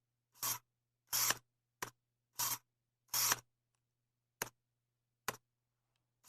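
Seven short, sharp clicks at uneven intervals, each a fraction of a second long, with silence between.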